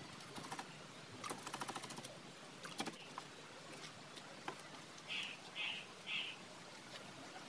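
A bird calls three short high notes in quick succession about five seconds in, over faint outdoor background. Earlier come a brief rapid rattle of light ticks and a few single clicks.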